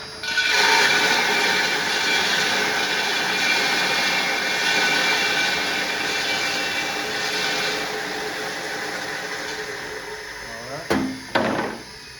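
Corenco industrial grinder, set at 60 hertz, grinding roasted hazelnuts. It starts about half a second in with a loud rush and a steady whine, then eases off gradually after about eight seconds as the load passes through. Two short, loud bursts come near the end.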